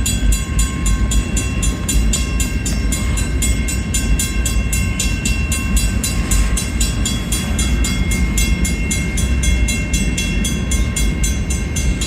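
A long freight train's cars roll slowly through a grade crossing with a steady low rumble. A mechanical crossing bell rings in rapid, even strokes, about four a second.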